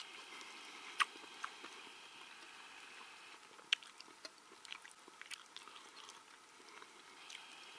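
Faint chewing of a mouthful of salted pork, with a few short sharp clicks of a metal spoon against a metal mess tin.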